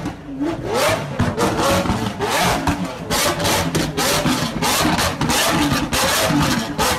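Lamborghini Aventador SV's V12 engine being revved again and again while standing still, each rev a short rising sweep, with sharp exhaust pops and cracks between revs.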